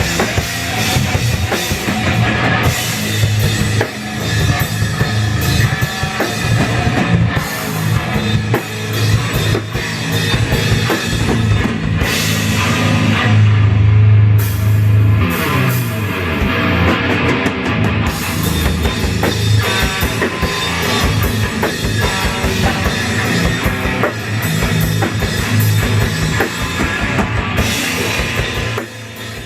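Live heavy metal jam: a drum kit and a guitar playing together loudly, breaking off just before the end.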